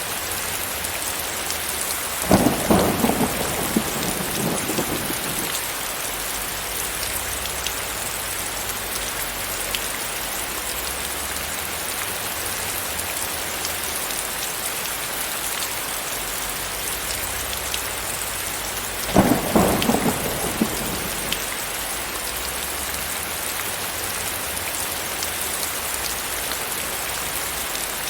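Steady rain falling, with two sudden thunderclaps that rumble away over a few seconds: one about two seconds in, the other about nineteen seconds in.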